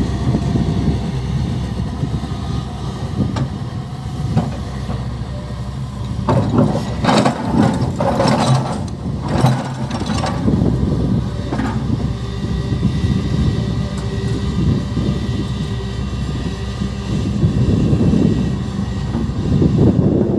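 Heavy diesel machinery of an excavator loading a dump truck, running steadily, with a louder rattling, rushing stretch of a few seconds about a third of the way in.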